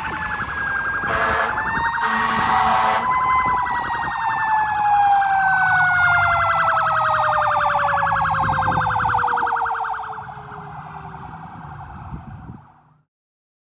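Fire engine's mechanical Q siren at peak, cut by two short air horn blasts in the first few seconds, then winding down in a long, steadily falling whine over the truck's low engine rumble. The sound cuts off abruptly near the end.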